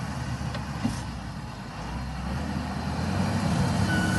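Loader tractor's engine running with a steady low rumble, growing louder in the second half.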